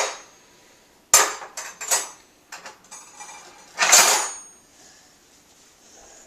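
Metal silverware and dishes clinking and clattering as they are handled. There are several sharp clinks from about a second in, and a louder clatter with a bright ring just before four seconds in.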